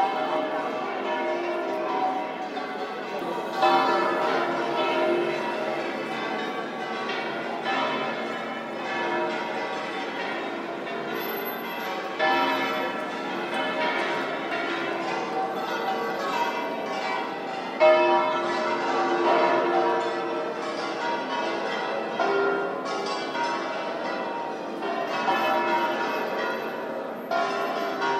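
Bells ringing in a continuous peal, many pitches overlapping, with fresh louder strikes every few seconds.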